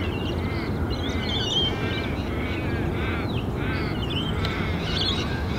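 Birds calling again and again in short arched calls over a steady low rumble. The rumble is the distant airport and the wind on the microphone.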